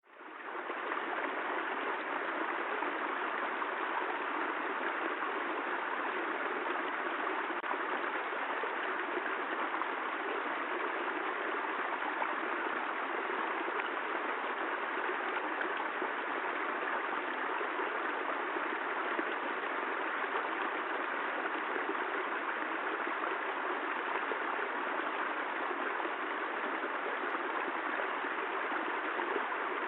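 Steady, even rain noise with no thunder. It drops out for a moment at the very start and comes straight back.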